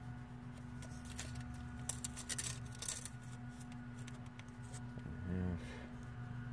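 Light clicks and rattles of small tools and parts being handled, mostly in the first three seconds, over a steady low hum. A short pitched sound comes about five seconds in.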